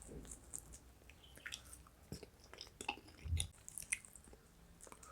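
Faint close-up chewing of soft food, with small wet clicks and smacks of the mouth and a soft low thud about three seconds in.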